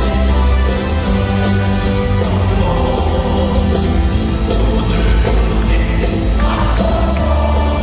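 Live Christian praise music in a large hall: a full rock-style worship band with heavy bass and drums, and voices singing.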